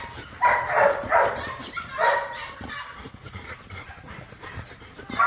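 Dogs barking in a kennel: several short barks in the first two seconds or so, a quieter stretch, then another bark near the end.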